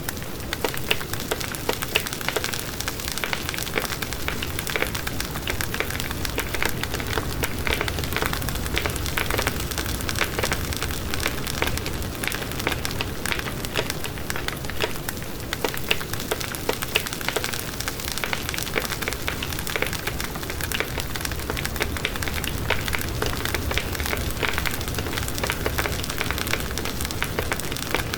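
Wood fire in a fireplace crackling steadily, with dense, irregular small pops and snaps over a low, even rush of flame.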